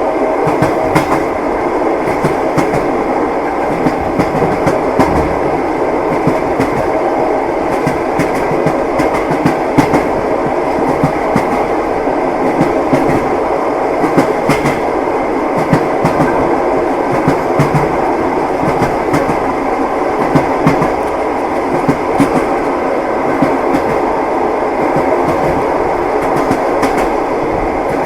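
Passenger train running on the rails: a steady rumble of the moving carriage with the clickety-clack of the wheels over the rail joints, many short clacks coming irregularly.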